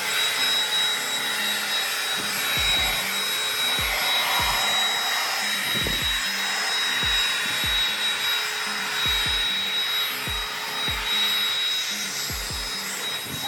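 Electric air blower running steadily with a high whine and a rush of air, blowing water off a car window to dry it.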